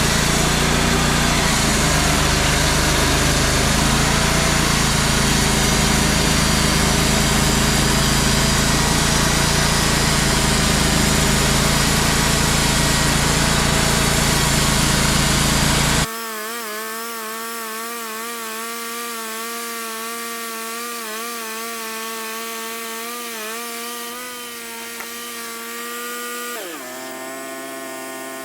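Portable bandsaw sawmill running with its blade cutting through a black walnut log, a loud steady sawing noise over the engine. About halfway it breaks off abruptly to a quieter machine whine with a wavering pitch, which drops lower near the end.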